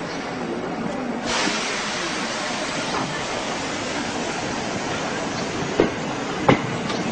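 Commuter train pulling out of the station alongside the platform: a steady rolling noise with a hiss that starts about a second in, and two sharp clacks near the end.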